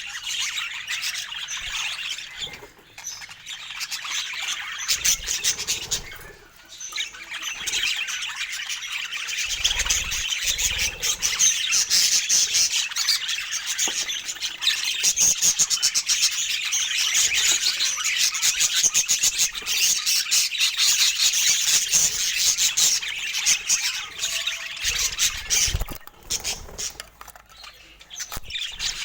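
Budgerigars chattering: a dense stream of fast chirps, warbles and squawks that goes on with little break, easing off briefly twice.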